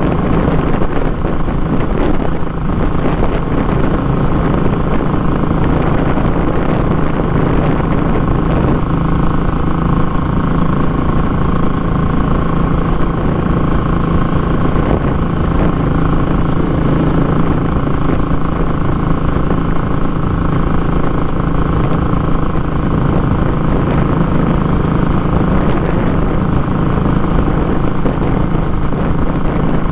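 Royal Enfield Classic 500's single-cylinder engine running steadily under way through a short muffler, giving a loud, raw exhaust note.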